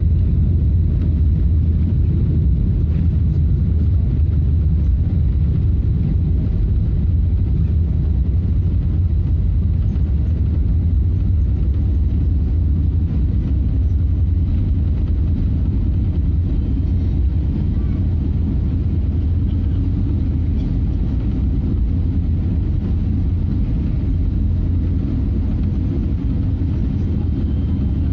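Steady low rumble of a Boeing 777 airliner heard from inside the cabin during its landing, easing slightly toward the end.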